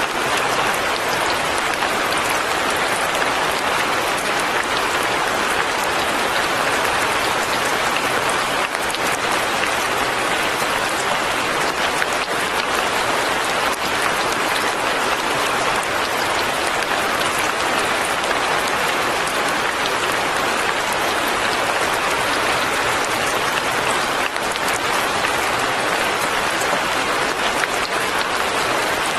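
Fine rain falling steadily, an even wash of rain noise with no changes or separate events.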